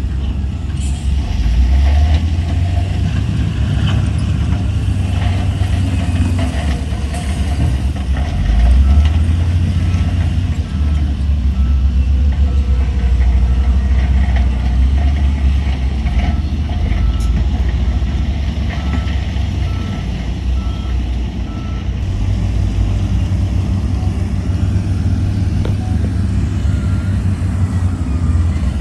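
Heavy diesel earthmoving machinery running with a deep, steady engine rumble. A reversing alarm beeps about once a second through the middle stretch.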